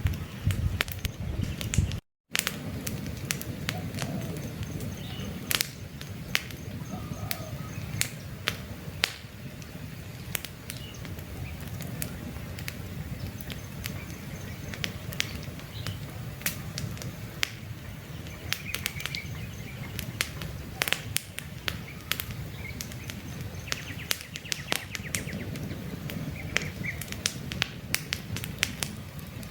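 Campfire burning with frequent sharp crackles and pops over a low, steady rumble of flames, and faint bird chirps in the background. The sound cuts out completely for a moment about two seconds in.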